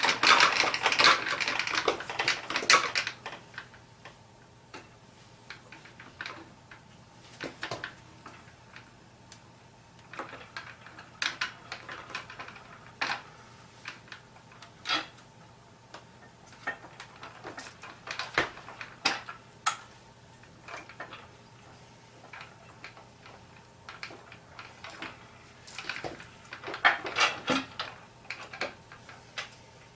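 Metal clanks, clicks and scraping from a BMW 320i transmission being fitted onto the clutch: a burst of scraping in the first few seconds, then scattered knocks and clinks.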